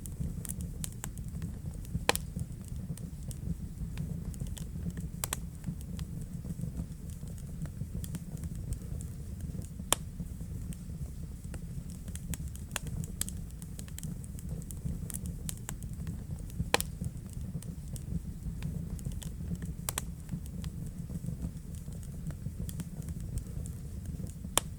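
Wood fire burning in a fireplace: a steady low rumble of flames with irregular crackles and sharp pops, a few louder snaps standing out.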